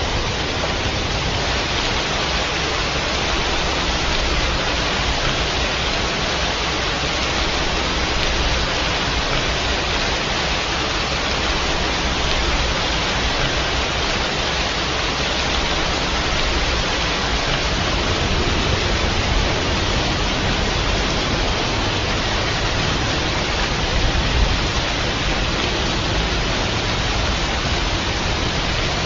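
Steady rain falling as a dense, even hiss, with a low rumble underneath that grows stronger about two-thirds of the way through.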